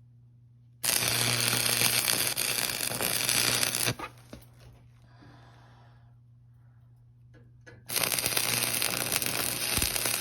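Two spells of harsh, noisy scraping, each about three seconds long, starting and stopping abruptly, with a steady low hum underneath.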